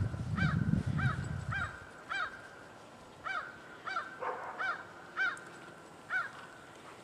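A bird calling over and over in short, arched, cawing calls, about one every half second to a second, with a low rumble under the first second or so.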